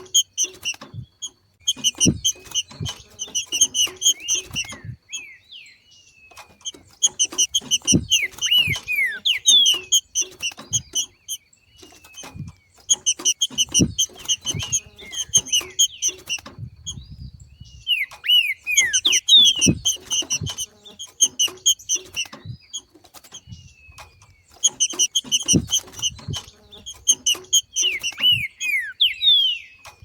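Green-winged saltator (trinca-ferro) giving its 'macheado': bursts of rapid, high chattering notes of a few seconds each, about five in all, with quick down-slurred whistles mixed in and soft low knocks alongside. Macheado is the call of saltators coming into breeding condition.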